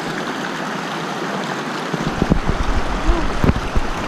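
Creek water rushing steadily. From about halfway through, irregular low bumps and rumbles sit on top of it.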